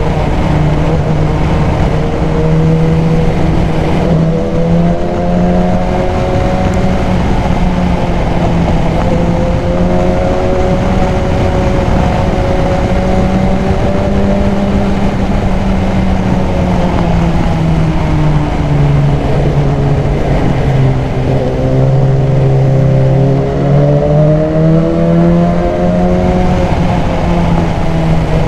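BMW S1000XR inline-four engine running under way, breathing through a K&N high-flow air filter. Its note rises and falls gently with the throttle, dips and climbs again about two-thirds through, over a steady rushing noise.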